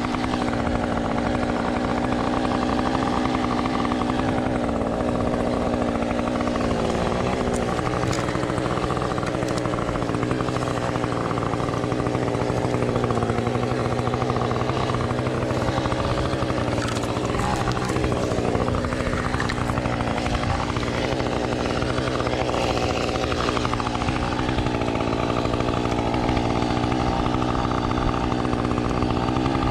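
Husqvarna T435 top-handle two-stroke chainsaw engine running steadily, its pitch wavering a little now and then.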